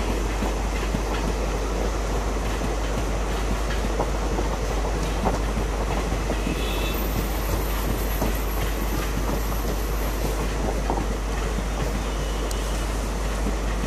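Passenger coaches of a long express train rolling steadily past, their wheels clattering over rail joints and crossover points in a continuous clickety-clack.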